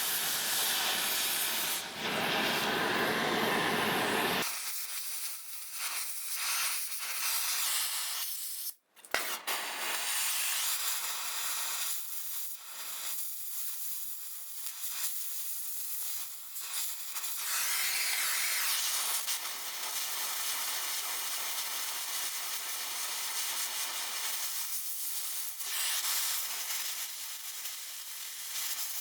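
Oxy-acetylene cutting torch hissing steadily as it burns. It cuts out briefly about nine seconds in, then comes back.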